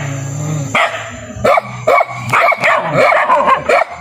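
Puppy barking and yipping: about ten short, high calls in quick succession.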